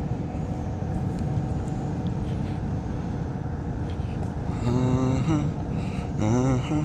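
Steady low rumble of wind and rolling noise from a Onewheel electric board being ridden along a trail. Two short voice-like calls with a wavering pitch come in the second half.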